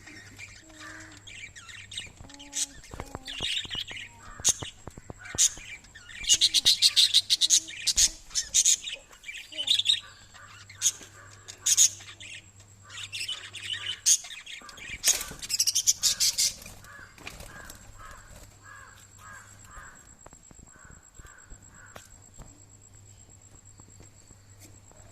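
Small pet parrots chirping: shrill, rapid chirps coming in dense loud flurries, then softer, quickly repeated twittering notes toward the end.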